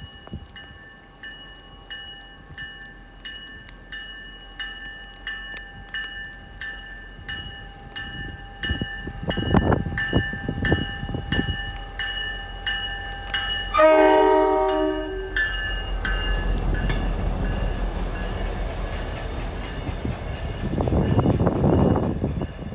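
A bell rings steadily as the train approaches, and about fourteen seconds in a locomotive horn sounds a short blast. The two MBTA F40PH diesel locomotives then rumble past, the rumble growing louder toward the end.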